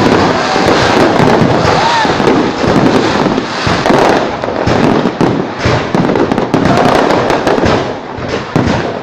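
Fireworks display going off, a dense, unbroken volley of bangs and crackling.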